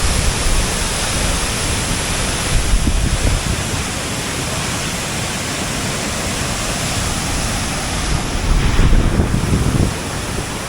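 Large waterfall pouring close by, a loud, steady rush of falling water. Wind buffets the microphone in low rumbling gusts about three seconds in and again near the end.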